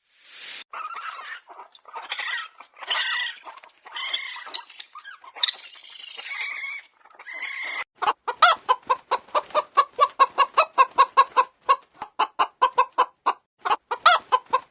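Domestic fowl calling. A brief hiss at the start gives way to several seconds of varied squawks and calls, then from about eight seconds in a fast, even run of short clucks, about four or five a second.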